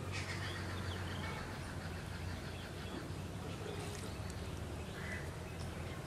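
Outdoor ambience: a few short, scattered bird calls over a steady low hum.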